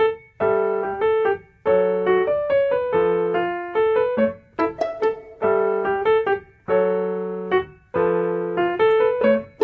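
Solo piano music: a gentle melody over chords, played in short phrases of struck notes that fade out, with brief pauses between the phrases.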